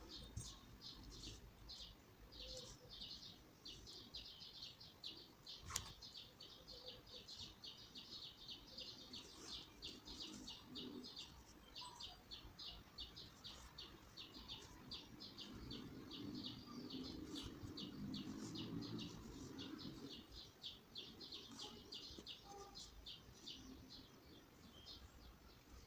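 Faint, rapid high-pitched chirping from a small bird, repeating evenly at about three or four chirps a second, with a single sharp click about six seconds in.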